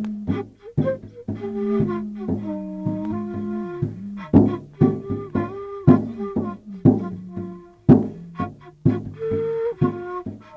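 Music: a flute-like wind instrument playing short held notes that step up and down in pitch, with sharp percussive knocks between them.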